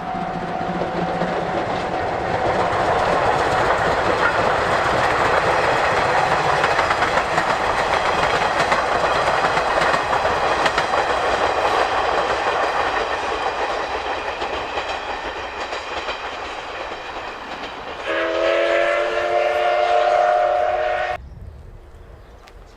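C12 66 steam locomotive and its train going by: a broad rushing noise of the engine and wheels that swells, holds and slowly fades. Near the end, the locomotive's steam whistle sounds once for about three seconds, several tones together, and cuts off suddenly.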